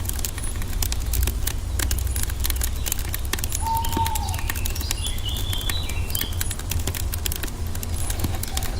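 Wood fire crackling with many sharp pops over a steady low rumble. About four seconds in, a bird gives a short whistle that rises and falls, followed by a run of higher chirps.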